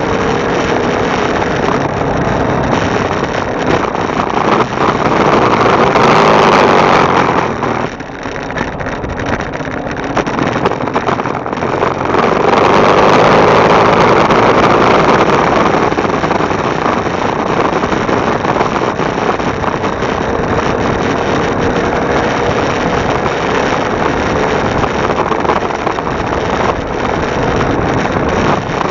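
Motorcycle running on the move, heard from a camera mounted on the bike: engine sound under a steady, dense rush of noise. The sound dips briefly about eight seconds in, then comes back up.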